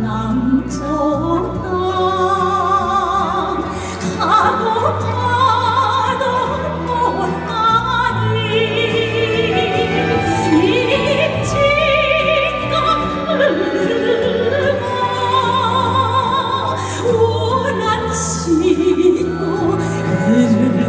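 A woman singing in an operatic, classically trained style with heavy vibrato over a recorded backing accompaniment.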